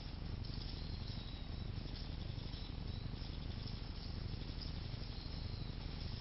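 Steady outdoor ambience: a constant low rumble with faint high chirping over it.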